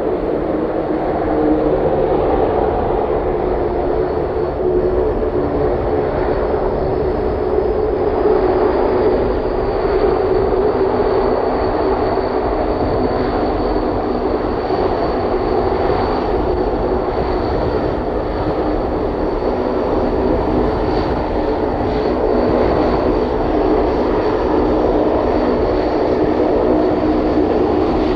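Antonov An-12B's four turboprop engines running at takeoff power, a steady loud drone with a high whine above it.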